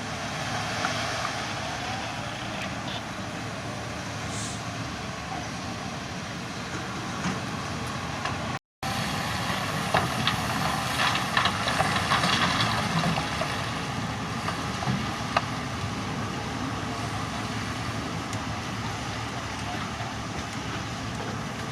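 Heavy construction machinery running, a steady engine drone with knocks and clatter from about ten to thirteen seconds in. The sound cuts out briefly about nine seconds in.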